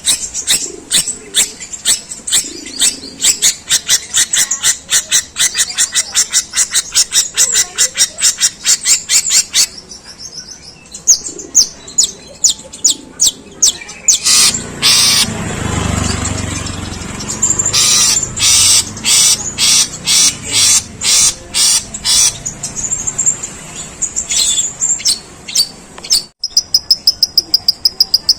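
Long-tailed shrike singing rapid volleys of short, harsh, chattering notes, several a second, in imitation of Eurasian tree sparrow chatter, with a louder rough burst around the middle.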